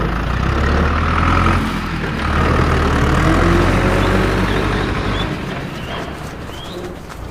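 A large vehicle engine running with a deep, steady rumble. The rumble dips briefly about two seconds in, comes back, then fades from about five seconds on, while a few faint bird chirps appear near the end.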